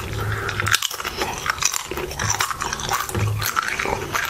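Close-miked chewing of a salsa-dipped tortilla chip: a bite, then many quick crisp crunches.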